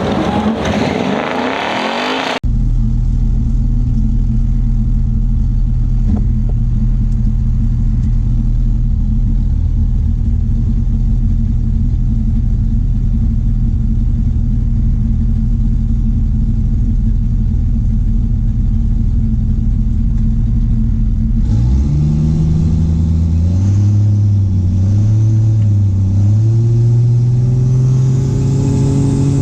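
A loud vehicle sound whose pitch falls away, cut off abruptly after about two seconds. Then a vehicle engine idles with a steady low drone. From about 21 seconds in, the engine speed rises and falls as it is revved and pulled along.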